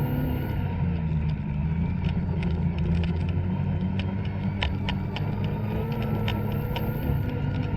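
Two-stroke snowmobile engine running at a steady throttle, with scattered sharp clicks over the steady hum.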